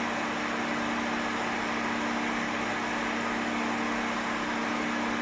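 A pet hair dryer blowing on a low setting: a steady rush of air over a constant motor hum.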